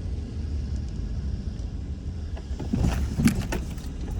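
Low, steady rumble of a vehicle heard from inside the cabin as it pulls over to park, with a few sharp clicks and knocks in the second half.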